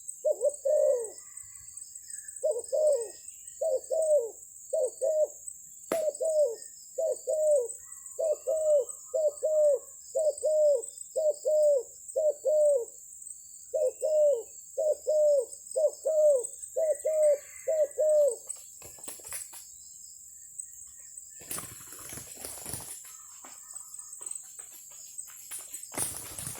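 Spotted dove cooing: a long series of short coos in quick succession that stops about two-thirds of the way through, followed by rustling near the end.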